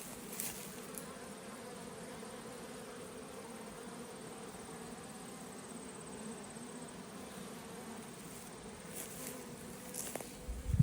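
Honeybees buzzing steadily around the entrance of a queen mating nuc, an even low hum.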